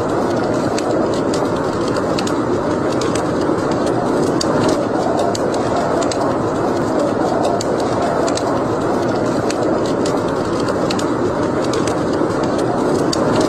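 Fire burning in a fireplace: a steady rushing sound with frequent small crackles and pops scattered irregularly throughout.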